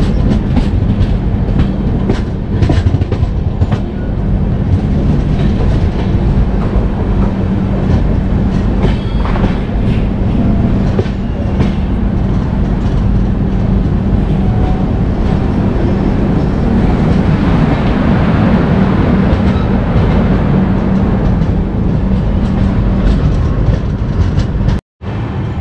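Rajdhani Express passenger coaches running along the track: a steady rumble of wheels on rail mixed with wind rush. Rapid clicks over rail joints come in the first few seconds, and there is a short dropout near the end.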